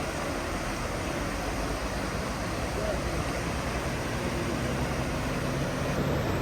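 A motor vehicle's engine running with a steady low hum over a continuous rushing background noise. The hum grows stronger about four seconds in.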